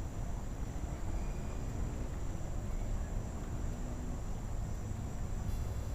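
Steady low rush of floodwater with insects trilling high above it. A faint hum rises slowly in pitch through the middle.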